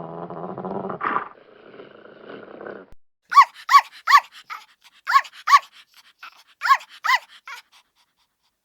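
A dog's low growl ends about a second in. After a short break comes a dog yapping: a string of short, high-pitched yips, about seven loud ones over four seconds with softer ones between.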